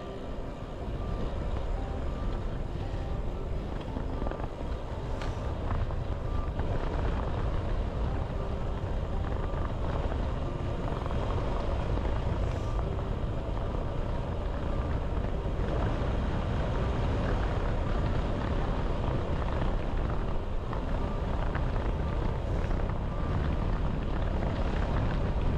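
Wind buffeting an action camera's microphone while riding a road bike. It builds over the first couple of seconds as the bike gets up to speed, then holds steady.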